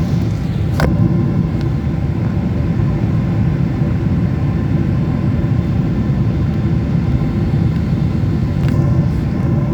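Steady drone of an airliner's engines and airflow heard inside the passenger cabin in flight, with faint steady tones above the rumble. One brief click about a second in.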